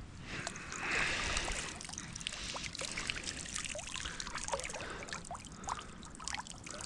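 Water trickling and dripping from a shrimp net lifted out of the river: a swell of running water about a second in, then many small scattered drips and plops.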